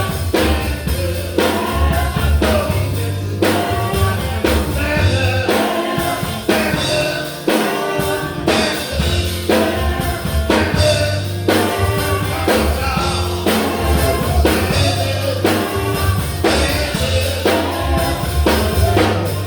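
A gospel band playing live, with drum kit, bass, guitar and keyboard, and singing, over a steady beat of about two strokes a second.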